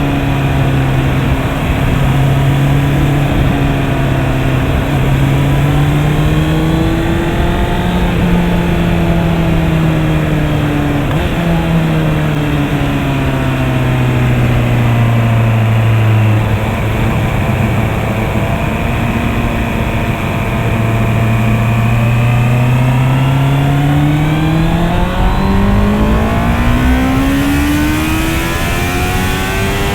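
Honda CB650R's inline-four engine running under way, with rushing noise underneath. The engine pitch holds and wavers, drops lower in the middle, then climbs steadily over the last several seconds as the bike accelerates.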